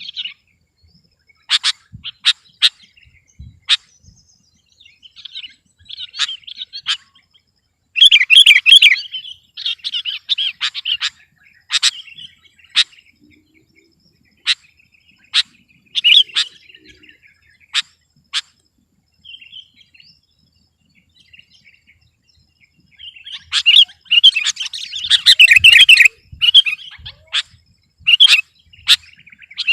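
Sooty-headed bulbul (kutilang) in full song: loud, sharp single notes scattered throughout, with bursts of rapid chattering song about eight seconds in and again from about 23 to 27 seconds.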